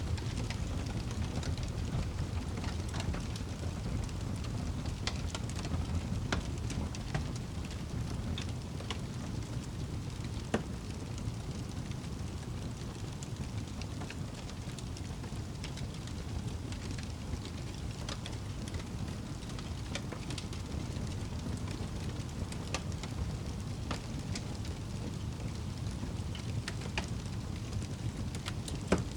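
Wood fire burning in a fireplace: a steady low rumble of flames with irregular sharp crackles and pops from the logs, a couple of them louder.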